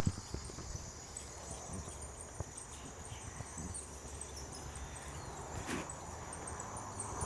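Quiet outdoor ambience: a faint, steady high-pitched insect drone with a few soft knocks scattered through.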